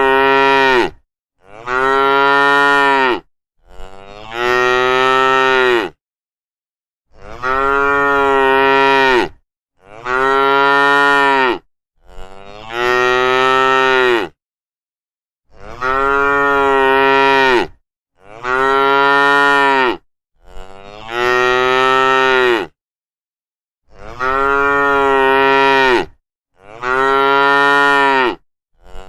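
Cattle mooing over and over: about a dozen long moos of roughly two seconds each, one after another with short silent gaps between them.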